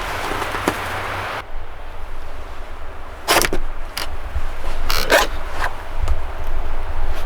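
Blizzard wind rumbling on the microphone, with a steady hiss that cuts off abruptly after about a second and a half. A handful of short, sharp noises follow between about three and six seconds in.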